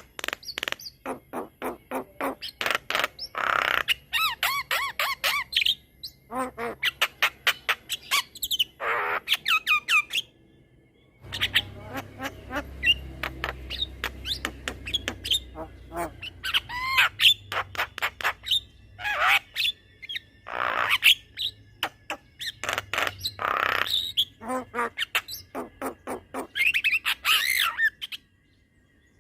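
Javan myna singing a long, varied song: fast runs of clicking rattles mixed with harsh squawks and rising and falling whistles. The song comes in phrases, broken by short pauses about ten seconds in and near the end.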